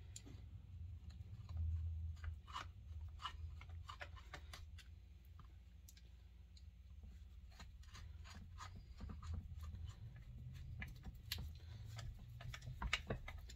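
Scattered small clicks and ticks of hand tools and small parts being handled while fitting the oil pump to a chainsaw, over a low steady hum.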